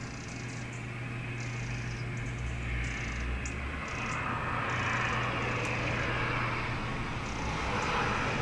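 Eurasian wren giving its alarm call: repeated dry, churring rattles, each about half a second to a second long, warning of danger below. Under it a steady background rumble and hiss that grows louder through the second half.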